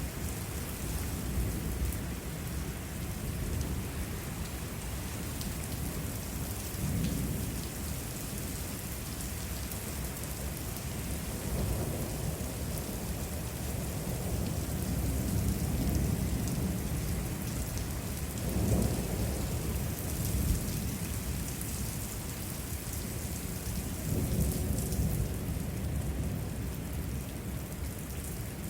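Steady heavy rain during a thunderstorm, with several low rumbles of thunder rolling in and fading, the strongest about two-thirds of the way through.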